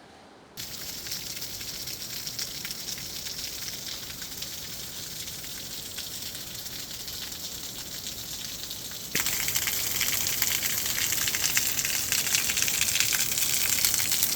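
Steady rushing of flowing water, a constant hiss that steps up louder at a cut about nine seconds in.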